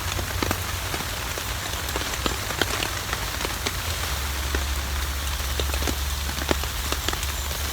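Heavy rain falling on a camo tarp overhead: a steady hiss with scattered, irregular sharper drops.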